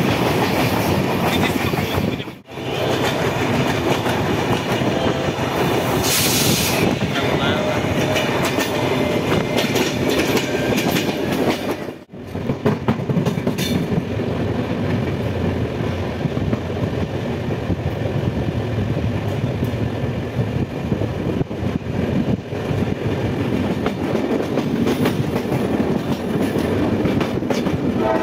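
Running noise of a moving passenger train heard from on board: a steady rumble with wheels clattering over the rails. The sound drops out briefly twice, about two and twelve seconds in, and a short high hiss comes through around six seconds in.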